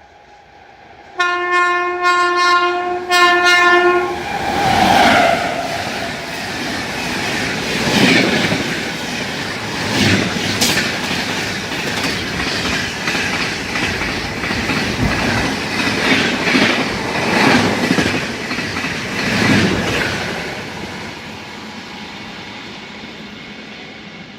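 Indian Railways train horn sounding in two blasts, one long and one short, then the train running past at speed with wheels clattering over the rail joints; the noise dies away over the last few seconds.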